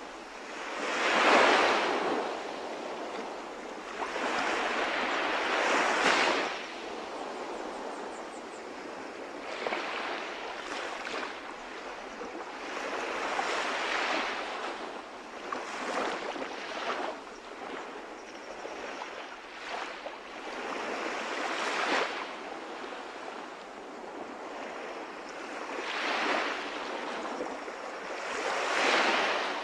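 Calm sea waves washing onto the shore, a steady hiss of water that swells with each breaking wave every few seconds and falls back between them.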